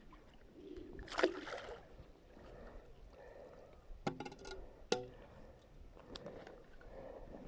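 Faint splashing and sloshing of water as a magnet-fishing magnet on its rope is dragged in through the shallows, hooked onto a heavy metal object. There is a splash about a second in, and two sharp knocks with a brief ring about four and five seconds in.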